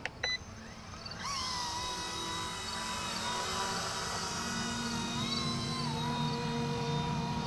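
Small electric RC ERA EC-135 scale helicopter's motors spinning up about a second in and running with a steady high whine over the rotor's low hum, the pitch dipping briefly twice as the throttle changes. A short beep sounds just before it spools up.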